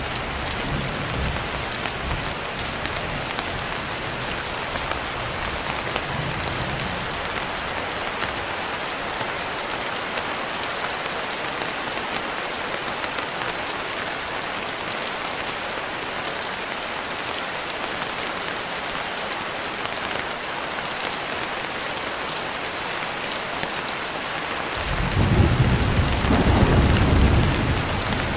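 Steady heavy rain hissing throughout, with thunder: a low rumble dying away in the first few seconds, and a louder roll of thunder building near the end.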